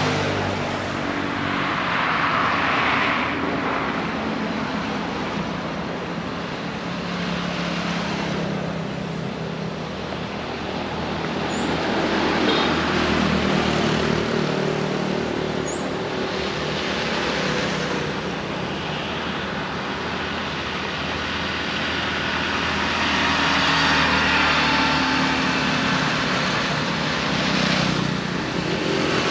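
Road traffic: vehicles passing one after another, the noise swelling and fading every few seconds over a low engine hum. Two brief high chirps come near the middle.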